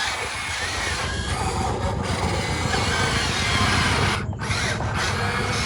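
Electric motors and hydraulic pump of an RC excavator and dump truck running steadily, a dense whirring hum like a power tool with short faint whines on top.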